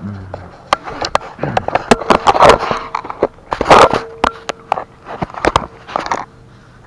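Clattering of hard objects being handled: a run of sharp clicks and knocks with louder scraping bursts about two, four and six seconds in, dying down shortly before the end.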